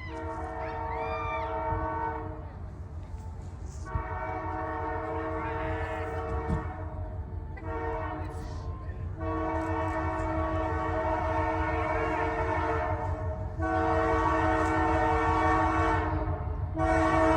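Locomotive air horn sounding a series of long blasts with gaps between them, over the low rumble of the passing train; the blasts grow louder toward the end as the train nears.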